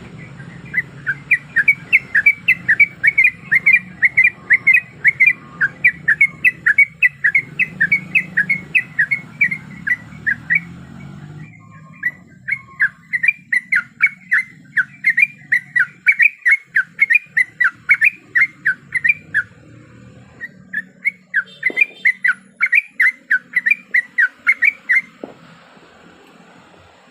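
Yellow-vented bulbul (trucukan) singing a long, fast run of short whistled notes, several a second, with brief breaks about eleven and twenty seconds in, stopping a couple of seconds before the end.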